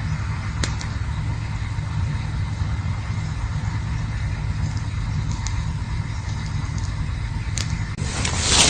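Campfire burning with a steady low rumble and a few sharp crackles. A louder rushing noise comes in near the end.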